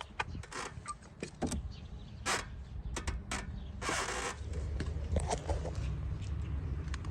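Scattered clicks, taps and short scrapes of hand tools and parts being handled while the ignition coil is unbolted and pulled from the engine. A low steady hum comes in about four seconds in.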